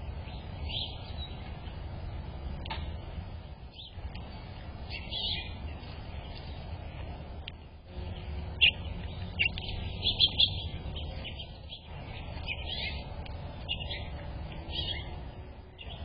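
Small birds chirping in short, scattered calls, busiest and loudest a little past halfway, over a steady low background rumble.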